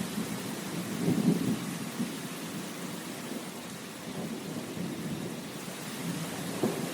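Steady rain hissing, with low rumbles that swell about a second in and again near the end.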